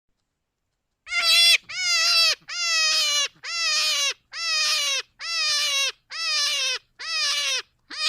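Young goat bleating over and over: about nine short, high calls at roughly one a second, each falling in pitch at its end, starting about a second in.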